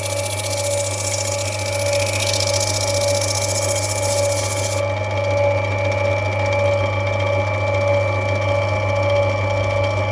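Lapidary grinding wheel running with a steady hum while the back of an opal is ground flat against it; the high grinding hiss stops suddenly about five seconds in as the stone comes off, and the motor keeps running.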